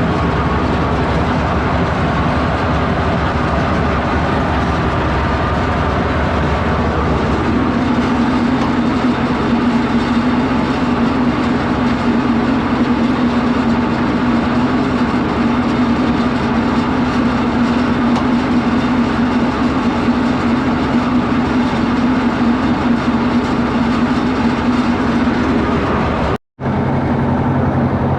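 Detroit diesel power unit running steadily, with a shift in its pitch about seven seconds in. The sound breaks off for a moment near the end.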